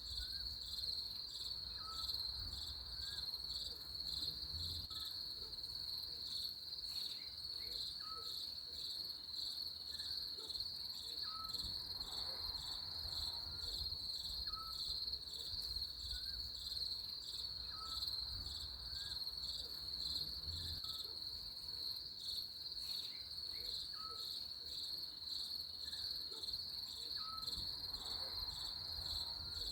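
Steady chorus of crickets: a continuous high-pitched pulsing trill, with a faint short chirp repeating about once a second beneath it.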